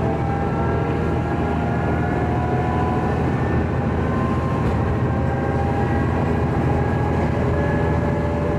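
Diesel railcar under way, heard from inside: a steady engine drone with running noise from the wheels and rails, and thin high whining tones that drift slowly in pitch.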